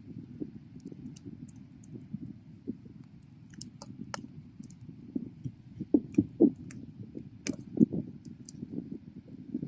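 Bonfire burning: a low steady rumble of flames with irregular crackles and sharp pops, the loudest cluster of pops about six to eight seconds in.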